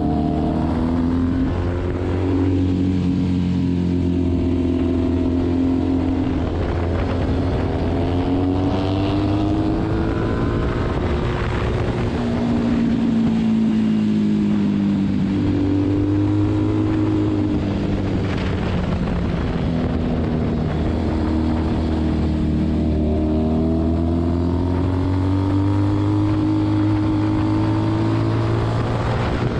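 Motorcycle engine heard from the rider's own bike on track, its pitch repeatedly climbing and dropping as the throttle and gears are worked through the corners, over a steady rush of wind.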